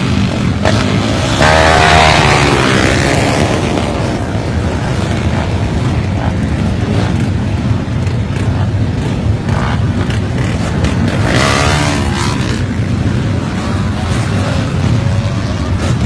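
Motorcycle engines running loudly, with an engine revving up about two seconds in and again about eleven seconds in.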